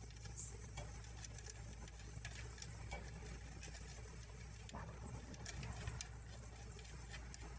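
Faint, scattered light clicks and taps over a low steady hum and a thin, steady high-pitched whine.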